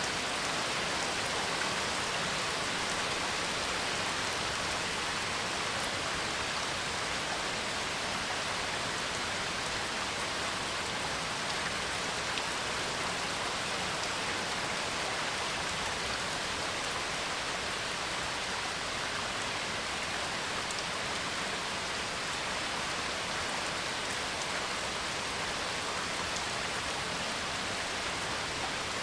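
Steady heavy rain, an even hiss of falling drops with no thunder or distinct impacts.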